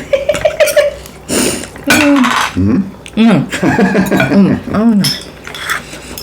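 Metal cutlery clinking and scraping against a plate as food is picked up, mixed with wordless voice sounds whose pitch rises and falls several times in the middle of the stretch.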